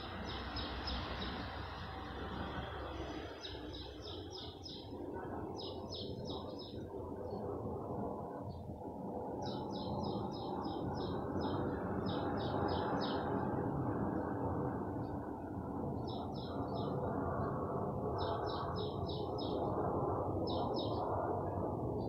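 A small bird calling in short series of quick, high chirps, several notes to a series, repeating every second or two over a steady low background noise.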